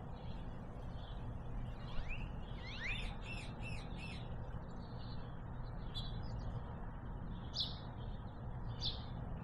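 Small birds chirping, with a run of quick chirps and short rising and falling notes about two to four seconds in, then scattered single chirps, over a steady low rumble.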